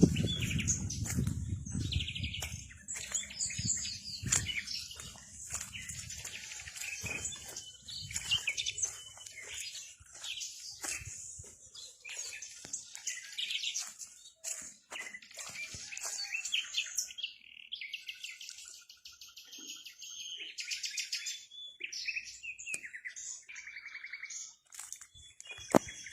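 Several small birds chirping and twittering, many short calls and quick trills overlapping, with a low rumble in the first few seconds.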